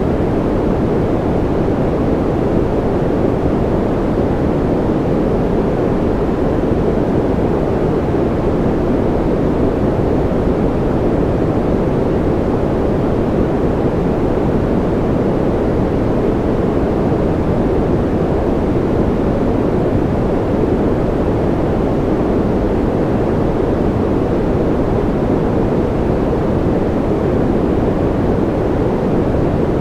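Steady sleep noise sold as white noise: an even, unbroken rush that is strongest low down and has little treble, so it sounds deep rather than hissy.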